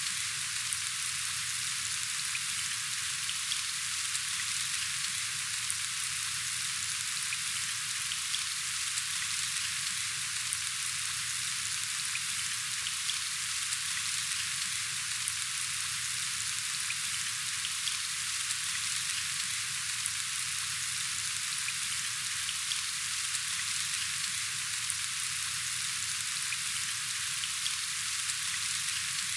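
Steady rain falling: an even hiss with small ticks of single drops scattered through it.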